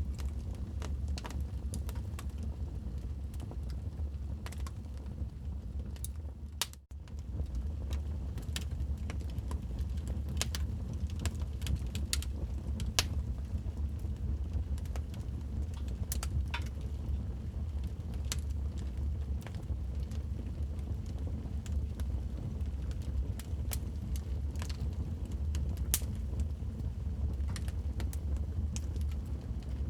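Wood fire crackling in a fireplace: irregular sharp pops and snaps over a steady low rumble of the flames. The sound drops out for a moment about seven seconds in.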